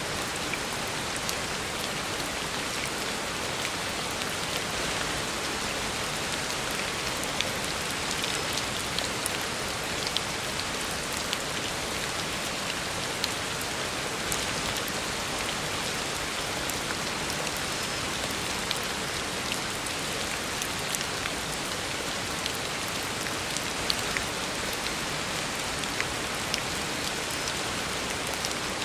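Heavy rain falling steadily on a paved road, a dense even hiss with scattered sharper drop splashes.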